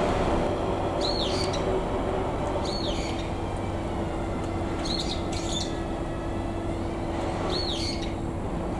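A bird calling repeatedly, a short high chirp every one to two seconds, over a steady low hum and rumble.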